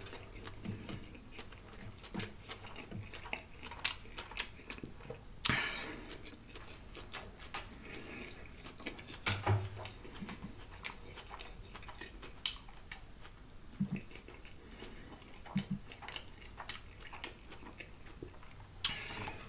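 Close-miked chewing of a bite of corned beef egg roll: wet mouth smacking with irregular crisp clicks and crackles.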